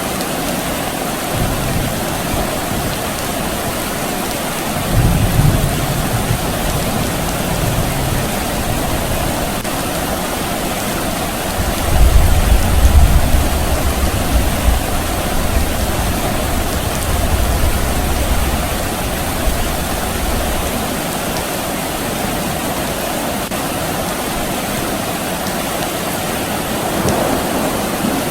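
Steady soft rain with distant thunder rumbling: a short rumble about five seconds in and a longer, louder one from about twelve to twenty seconds in.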